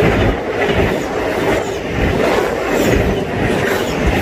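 Passenger train coaches passing at speed right alongside: a steady rumble and rattle of steel wheels running on the rails.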